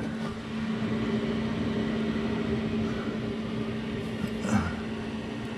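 A steady low hum, like a fan or powered machinery, with a couple of faint short knocks about three and four and a half seconds in.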